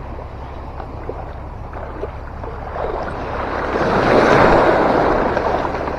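Rushing wind and water noise with no pitched sound in it, swelling louder from about three seconds in and peaking around four to five seconds.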